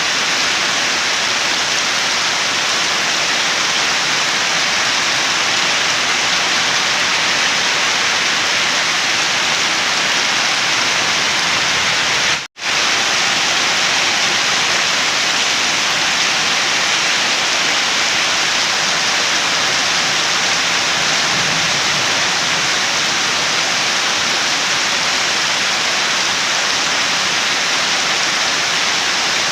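Heavy, steady rain, a dense even hiss of falling water. It cuts out for a split second about halfway through, then resumes unchanged.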